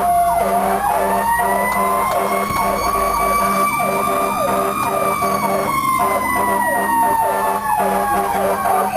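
Fire engine sirens during an emergency response: one siren winds slowly up and falls back down again, while a second siren sweeps quickly and repeatedly underneath it, over a steady low drone.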